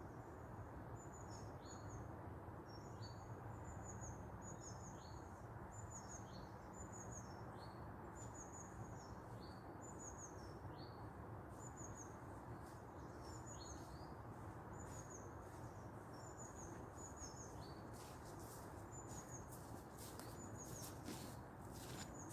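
A small songbird repeating a short, high two-note call about once a second over faint low outdoor rumble. Several brief clicks or rustles come in over the last few seconds.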